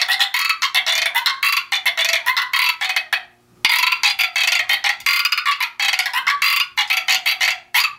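Frog sound drum, a tiny goatskin-headed friction drum whose rosined stick is turned against a string, played in short rhythmic bursts of rapid rasping croaks. The bursts break off briefly about three seconds in, then go on until just before the end.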